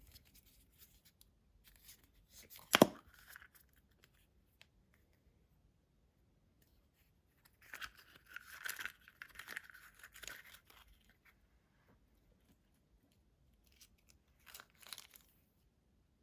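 Foil wrapper of a chocolate surprise egg being torn and peeled off in two stretches of tearing and crinkling. A single sharp click comes about three seconds in.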